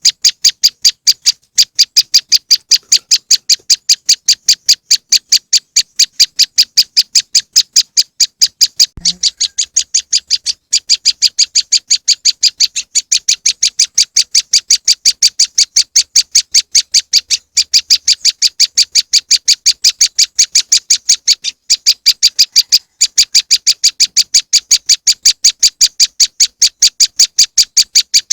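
Prenjak lumut lure call: a short, high, sharp note repeated rapidly and very evenly, about three times a second without a break, with a brief low click about nine seconds in.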